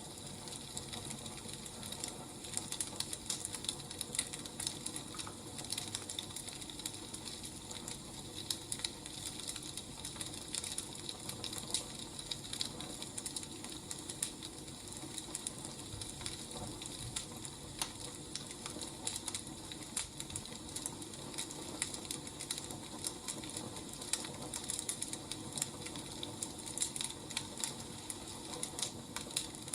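Wood fire crackling: irregular pops and snaps over a steady hiss.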